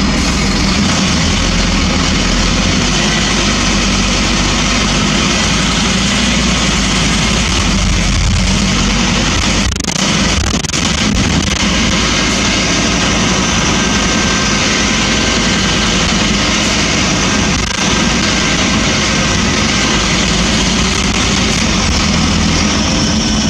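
Scania N230UB bus's diesel engine running steadily, with a few brief dips in level about ten seconds in and again near eighteen seconds.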